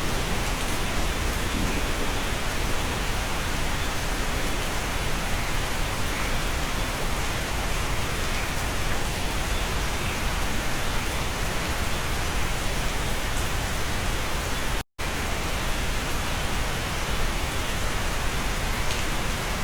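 Steady, dense rain hiss. It cuts out completely for an instant about fifteen seconds in, then resumes unchanged.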